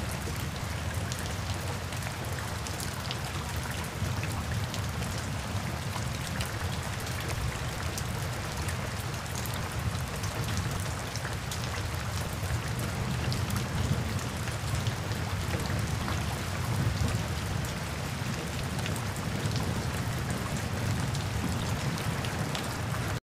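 Rain falling on a flooded street and its standing water: a steady hiss full of small sharp drop ticks, with a low rumble under it, cutting off suddenly near the end.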